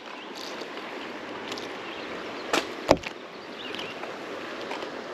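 Steady wind and water noise around a kayak, with two sharp knocks against the kayak a fraction of a second apart, about two and a half seconds in, the second one louder.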